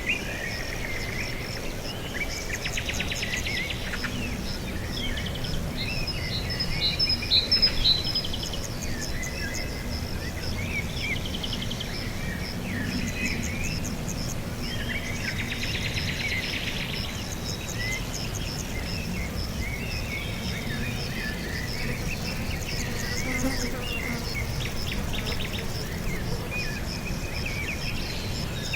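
Several birds chirping and trilling in short phrases over a continuous high-pitched insect drone, such as crickets.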